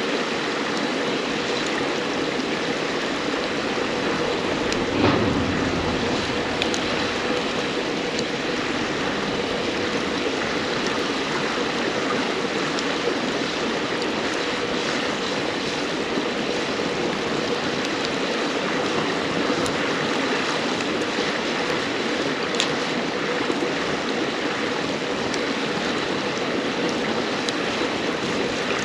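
River water babbling steadily, with scattered sharp crackles and pops from burning firewood. A single dull thump about five seconds in.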